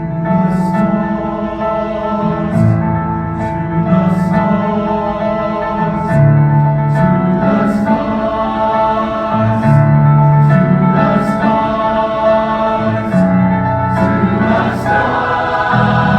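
Choir singing a choral piece in sustained chords, the sung consonants cutting through, growing louder about six seconds in.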